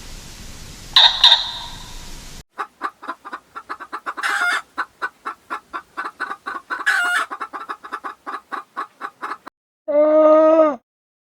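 Chicken clucking in a rapid run of short clucks, several a second, broken by two louder squawks. A short harsh call comes before it, and a short low call follows near the end.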